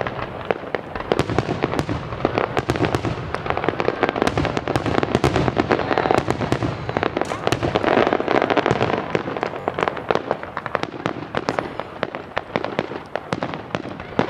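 Fireworks going off in a dense barrage of rapid pops and bangs, with no let-up.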